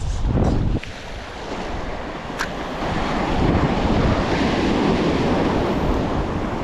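Sea surf washing against shoreline rocks, with wind buffeting the microphone. The wind rumble is heavy for the first second, then eases.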